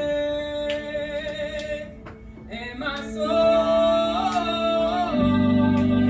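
Church music: singing in long held notes with vibrato over sustained organ chords, with sharp cymbal or drum hits. It dips briefly about two seconds in, and a new, louder chord comes in near the end.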